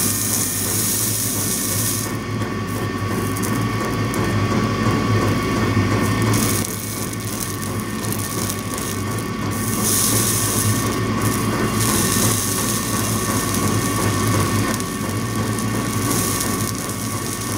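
100-watt electric soldering tool heating a thick fluxed wire joint, giving a steady electrical hum with a fluctuating hiss over it. The joint is slow to come up to the melting point of the solder.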